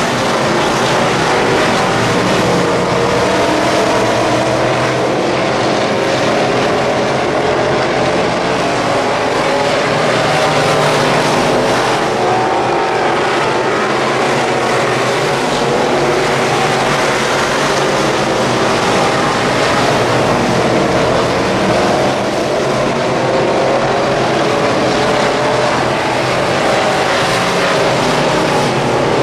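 Wissota Midwest Modified dirt-track race cars' V8 engines running hard, the engine pitch rising and falling as the throttle comes on and off.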